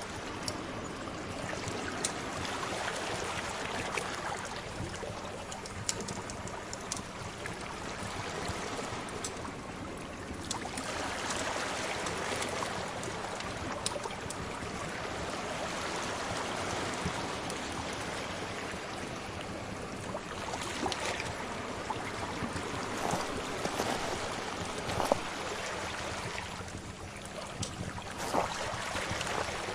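Sea waves washing in and out in slow swells, with scattered pops and crackles from a fire.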